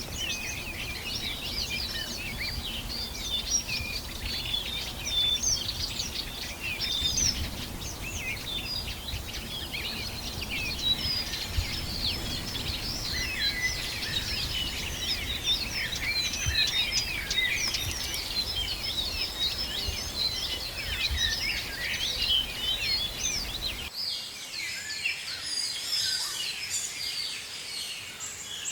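A chorus of many tropical forest birds calling at once: a dense, unbroken stream of short, quick chirps and high whistles. A low background rumble underneath cuts out suddenly near the end, while the birdsong carries on.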